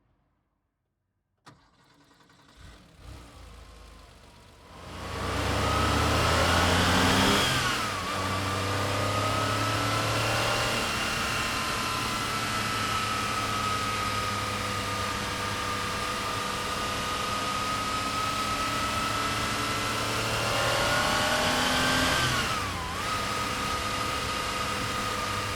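Porsche 911S's air-cooled 3.2-litre flat-six being cranked on the starter for a few seconds, then catching and revving up before settling into a steady fast idle. Near the end the revs rise briefly and drop back to idle.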